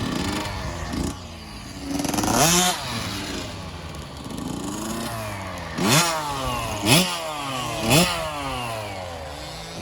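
Dirt bike engines running, rising and falling in pitch, with three sharp revs about a second apart in the second half.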